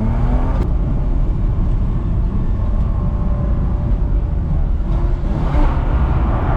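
BMW E46 325Ci's straight-six engine running hard on track, its note rising at the start and then holding steady. A rush of wider noise builds near the end.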